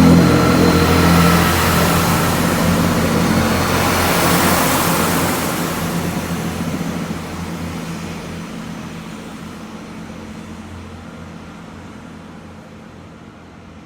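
A Great Western Railway diesel train's engine running with a steady note as the train moves away, loud at first and fading steadily over about ten seconds.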